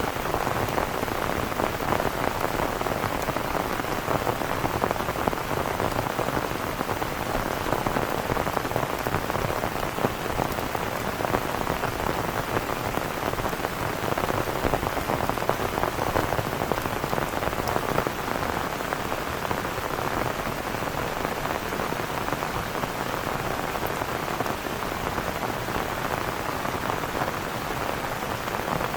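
Heavy rain falling steadily, a dense even patter of drops hitting surfaces close by.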